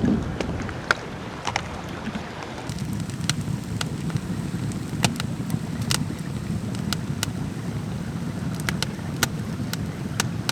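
Wood fire crackling in a clay-and-stone fireplace: irregular sharp pops, a few a second at most, over a steady low rush.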